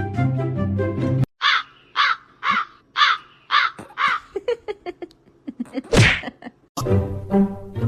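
Background music cuts off, and an animal gives six harsh calls about half a second apart. Then come a few small clicks and one loud burst of noise, and the music starts again near the end.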